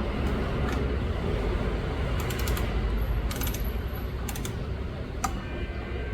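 Metal hand tools clicking and clinking in small quick groups, over a steady low hum.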